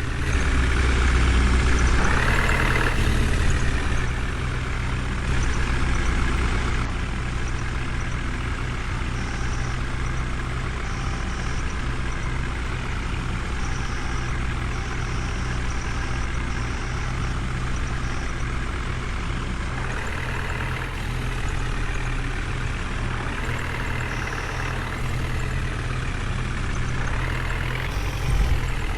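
Heavy diesel machinery engine running steadily, revving up briefly about two seconds in, around six seconds, around twenty seconds and again near the end.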